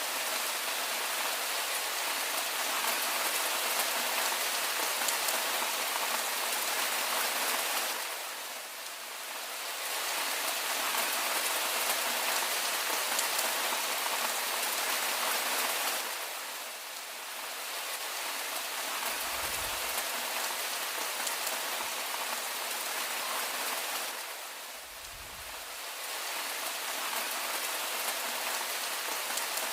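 Steady rain falling, a dense hiss of raindrops that eases briefly about every eight seconds. Two short low rumbles come in, about two-thirds and five-sixths of the way through.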